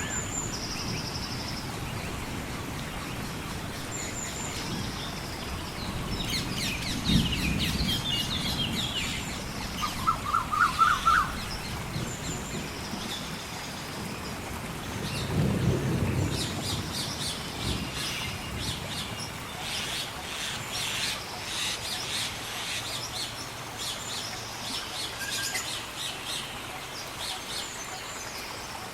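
Birds chirping and singing over steady gentle rain, with a quick run of repeated notes about ten seconds in. Two low rumbles of distant thunder swell and fade, one around seven seconds in and a longer one around fifteen seconds in.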